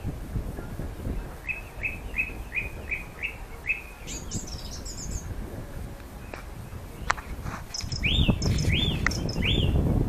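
Songbirds singing: first a quick run of about seven short repeated notes, then a brief high twitter, then three louder arching whistled notes near the end. Wind rumbles on the microphone over the last couple of seconds.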